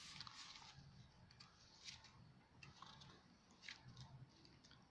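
Near silence with a few faint, brief rustles and taps of paper pages being handled.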